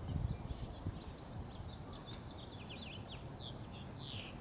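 Birds chirping, a run of quick high chirps in the second half, over a low steady rumble with a brief thump at the start.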